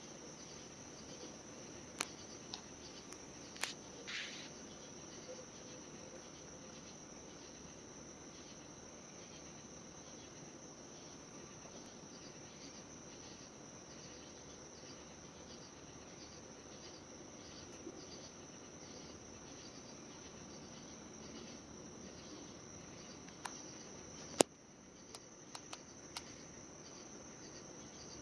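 Steady high-pitched chorus of crickets or similar night insects. A few sharp clicks cut across it, the loudest about three-quarters of the way through.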